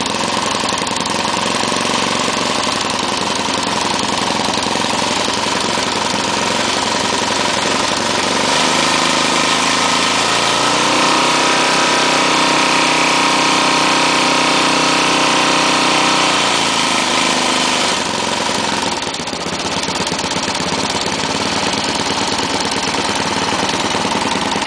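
Small lawn mower engine fitted with a Pantone reactor, meant to run partly on water, running steadily. About a third of the way in it revs up to a higher, steady speed, holds it for several seconds, then drops back to its lower running speed.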